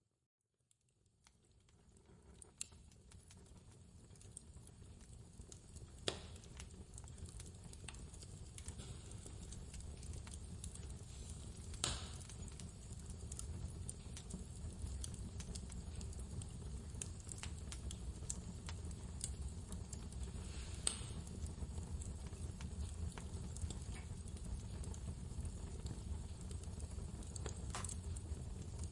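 Fireplace crackling: scattered small snaps and a few sharper pops over a steady low rumble. It fades in from silence over the first several seconds.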